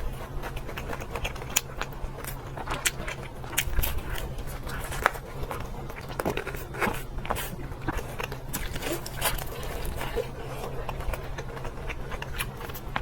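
Close-miked eating: irregular crisp crunches from biting into and chewing crunchy food.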